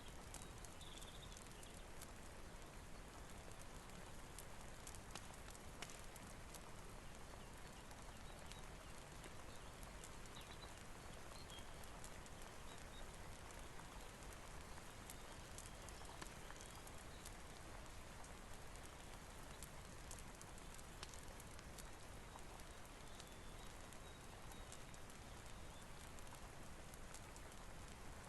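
Quiet, steady rain mixed with a fireplace: an even hiss with scattered sharp clicks and pops.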